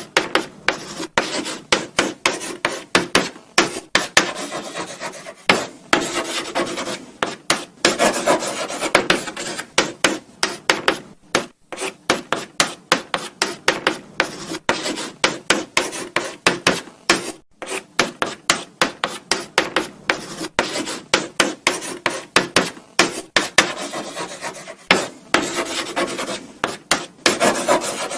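Chalk writing on a blackboard: quick scratchy strokes and taps, several a second, with brief pauses about eleven and seventeen seconds in.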